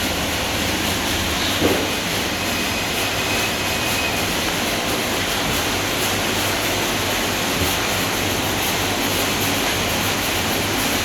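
Kleindienst tunnel car wash running: spinning wash brushes and water spray make a steady rushing noise, with a brief knock about one and a half seconds in.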